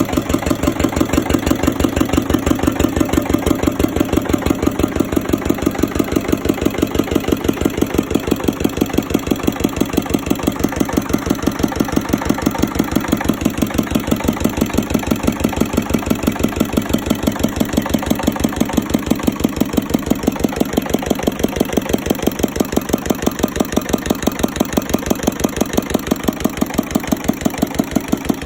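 Ruston engine running at a steady, even speed, each firing stroke a distinct beat repeating several times a second.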